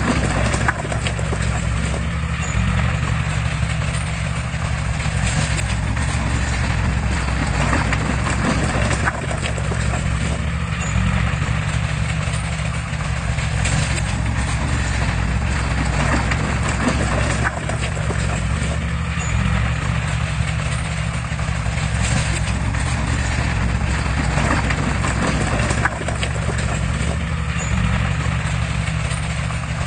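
Heavy diesel earthmoving machinery running steadily, a low engine drone under a continuous metallic clatter with irregular knocks.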